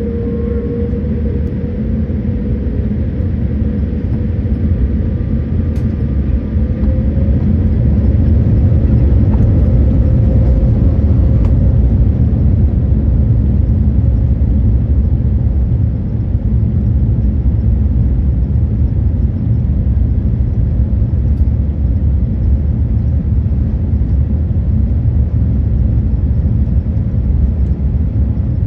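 Cabin sound of a Boeing 787-8 on its takeoff roll: its two Rolls-Royce Trent 1000 engines at takeoff thrust, with a heavy rumble of the wheels on the runway. The sound grows louder over the first several seconds as the jet accelerates and then holds steady. A faint whine fades out after about ten seconds.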